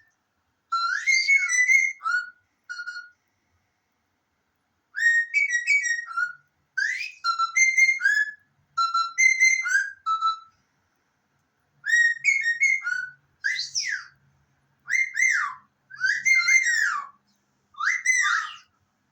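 Short whistled phrases of quick rising and falling notes, about ten in all, with brief pauses between them.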